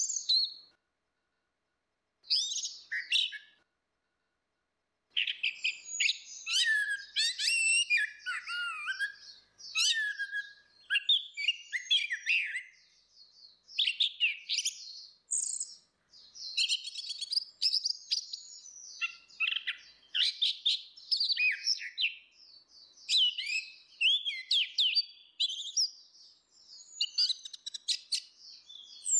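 Orange-headed thrush singing: a couple of short phrases with pauses, then a near-continuous run of varied, fast whistled and twittering phrases from about five seconds in.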